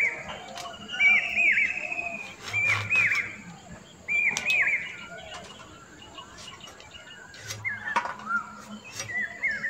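A bird calling over and over in short chirping phrases of two or three quick hooked notes, about one phrase a second, loud in the first half and fainter after about five seconds. A few sharp clicks sound in between.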